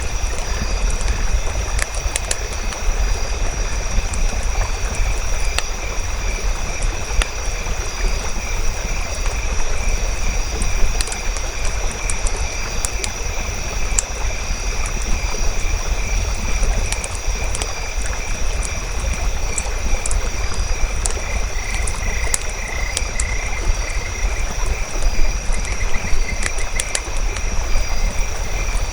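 Campfire crackling with scattered sharp pops over a low rumble, layered with a steady high-pitched chorus of calling animals.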